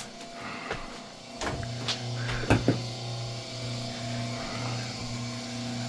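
Motor of a wire stripping machine starts about a second and a half in and runs with a steady hum. A few sharp clicks come in the first couple of seconds.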